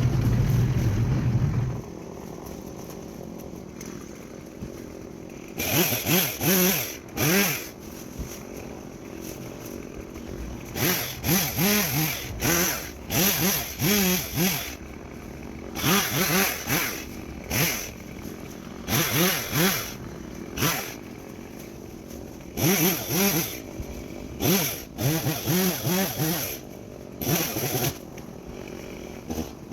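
Stihl chainsaw ticking over at idle and being revved again and again in short bursts, the pitch climbing and dropping with each one, as it cuts brush. A loud low rumble in the first couple of seconds.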